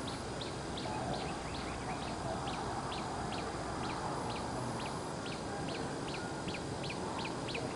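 A bird repeating a short, high, falling chirp, evenly spaced about two or three times a second, over faint steady background noise.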